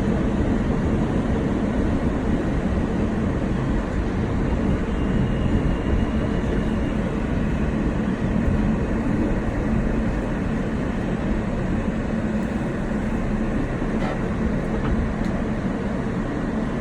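Subway train running, heard from inside the car: a steady, loud rumble of the wheels on the track.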